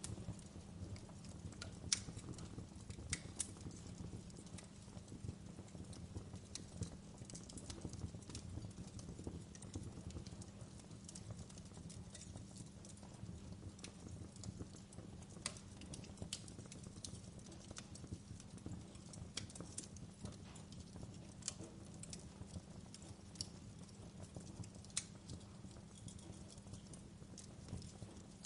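Wood fire crackling in a fireplace: irregular sharp pops and snaps, a few louder ones, over a steady low rumble of the burning logs.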